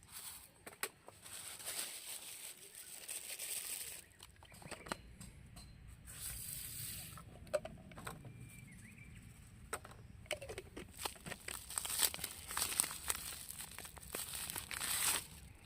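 Rustling and handling noises, with scattered sharp clicks and knocks throughout.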